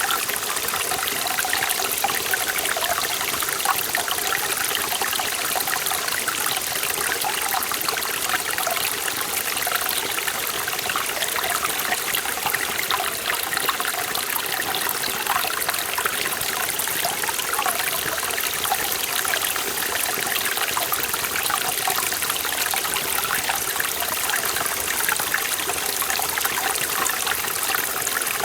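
Mountain stream in a forest valley flowing and burbling over rocks: a steady, even rush of water with fine gurgling.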